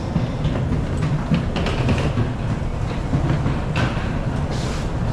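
Steady low rumble of a moving vehicle, with a few light knocks and clicks.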